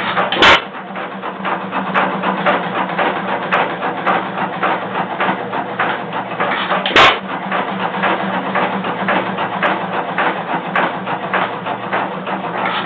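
1914 Associated 4 hp single-cylinder hit-and-miss gasoline engine running just after starting: two sharp firing bangs about six and a half seconds apart, with steady rapid mechanical clatter as it coasts between them.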